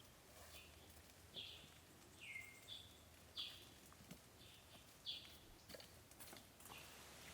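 A bird chirping faintly: short high calls that slide down in pitch, repeating about once a second, with a few light clicks between them.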